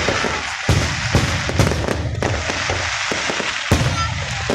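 Fireworks display going off: loud, dense crackling with a rapid run of bangs and several heavier booms.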